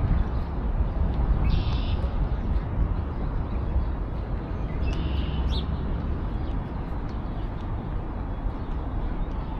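A bird calling twice with short, harsh calls, about a second and a half in and again about five seconds in, over a steady low rumble.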